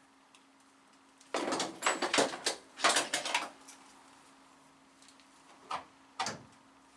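Clattering and scraping of metal parts being handled, in two rough bursts over about two seconds, followed by two single knocks.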